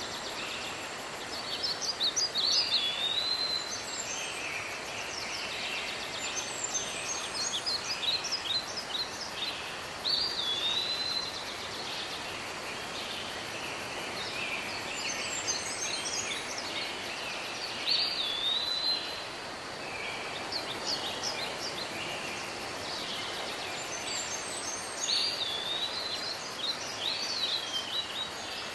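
Bird chirping and song phrases, each with a whistled swooping note, repeating about every eight seconds over a steady background hiss.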